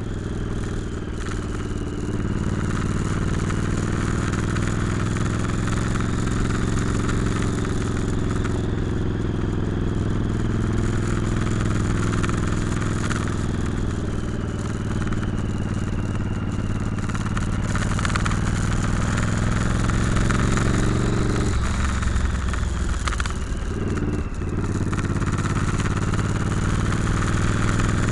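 Motorcycle engine running steadily under way, with a steady rushing noise over it. About three quarters of the way through, the engine note dips and breaks briefly before it picks up again.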